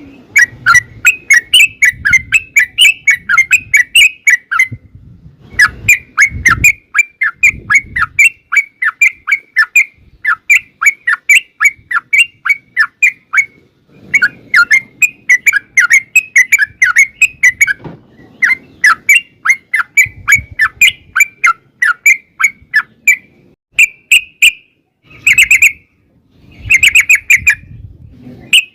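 Yellow-vented bulbul (trucukan) singing long, rapid runs of short chattering notes, in several phrases separated by brief pauses.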